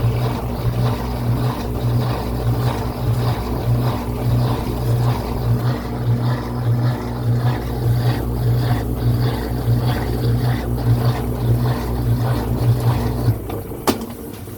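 Brastemp Ative 11 kg BWL11 top-loading washing machine on an intermediate spin: a steady, wavering hum of the motor and spinning drum, which drops away about 13 seconds in, followed by a single sharp click.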